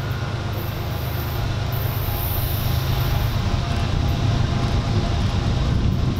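A train rolling by, a steady low rumble of wheels and equipment on the rails that grows slowly louder.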